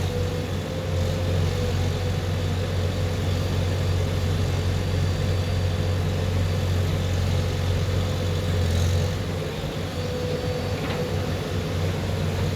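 Diesel engine of a JCB 3DX backhoe loader running steadily, with a strong low hum that drops away about nine seconds in.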